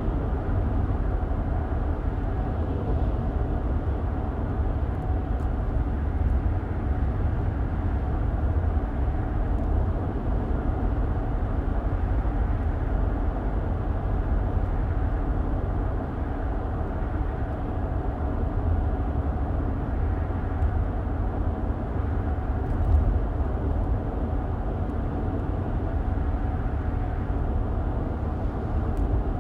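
Steady low rumble of a car driving along, heard from inside the cabin: tyre and road noise with the engine under it, with a small knock about two-thirds of the way through.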